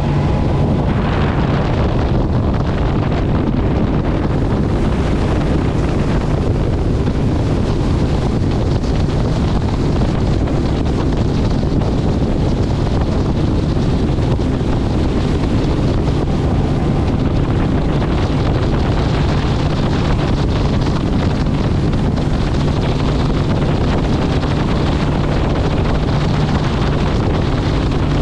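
Heavy wind buffeting on the microphone over a steady low engine drone, from a motorcycle ridden at highway speed.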